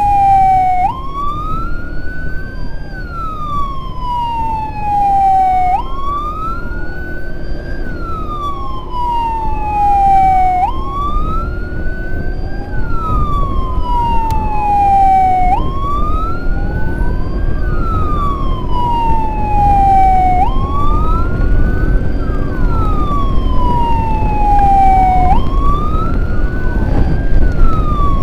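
Emergency siren wailing in slow, repeating sweeps: each climbs to a peak, falls slowly for a few seconds, then jumps back up, about six times through, over steady road and wind noise.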